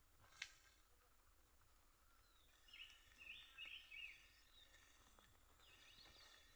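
Quiet outdoor ambience with a few faint, high bird chirps about two and a half to four seconds in, and a single sharp click near the start.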